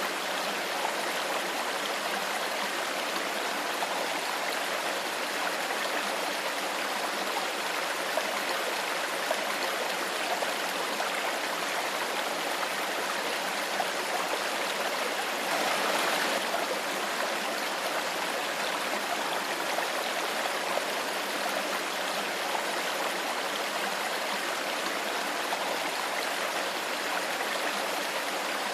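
Shallow stream flowing steadily, a continuous babble of running water, with a brief slightly louder surge about halfway through.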